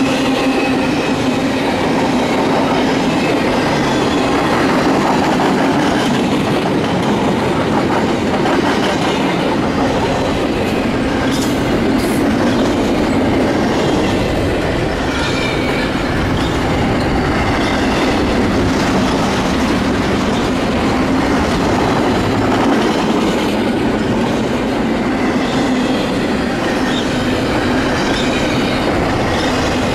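Double-stack intermodal well cars of a freight train rolling past at speed: a steady clatter and rumble of steel wheels on the rails, with a faint high wheel squeal at times.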